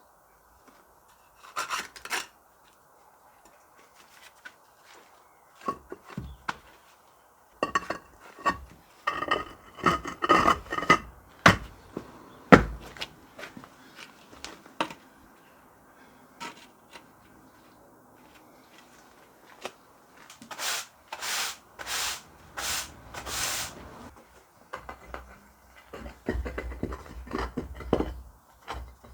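Hand work on metal stove parts: irregular clinks, knocks and clatter of metal, with a run of about five short scraping strokes around three-quarters of the way through.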